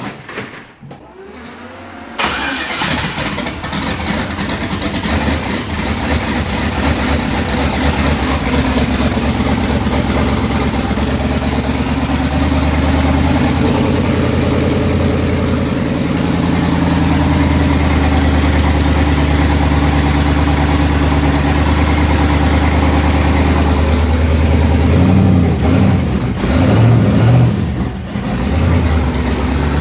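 A car engine's first start-up: it catches abruptly about two seconds in and settles into a steady idle, with a few short revs near the end.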